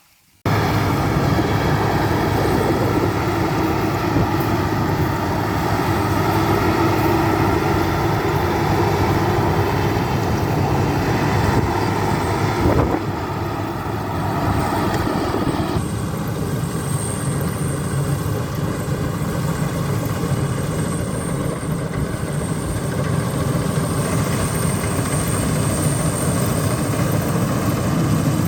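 Maxxi Bimo rice combine harvester running steadily at working speed, its engine and machinery making a continuous loud drone. The sound cuts in suddenly about half a second in, and its tone shifts about halfway through, when a thin high whine joins.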